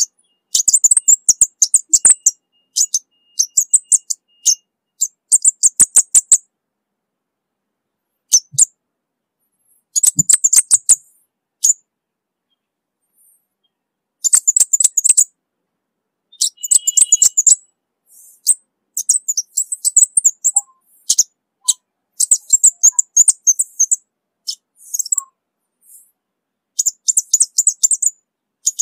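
Orange-bellied flowerpecker (cabai bunga api) calling: rapid strings of very high, thin ticking chirps in short bursts of one to two seconds, with pauses between.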